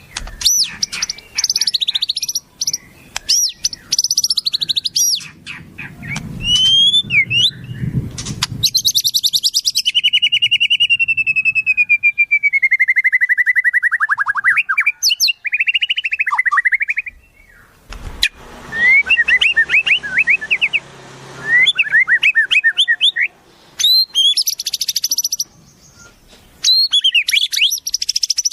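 Wild songbirds singing in a varied run of phrases: rapid high trills, then a long trill that slides steadily down in pitch, chattering notes, and a quick string of short rising whistles, with high trills again near the end.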